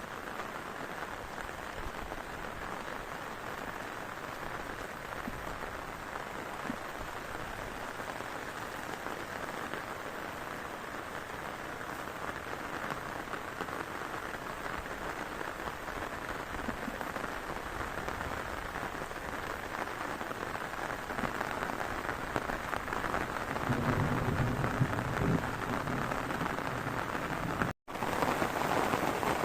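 Heavy rain pouring steadily, growing a little louder toward the end, with a low rumble for about two seconds near the end. The sound cuts out for an instant shortly before the end.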